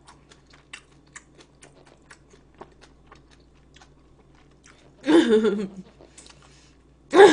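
Close-miked chewing: a string of small moist clicks and crunches from the mouth for about the first four seconds. A short burst of voice about five seconds in.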